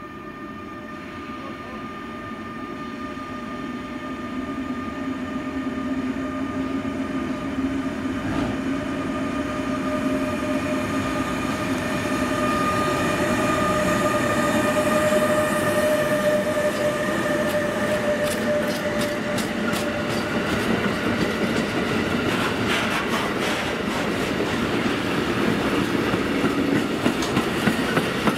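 Electric locomotive hauling a container freight train passing close by. A steady whine grows louder as it approaches, and from about two-thirds of the way in the wagons' wheels clatter rhythmically over the rail joints.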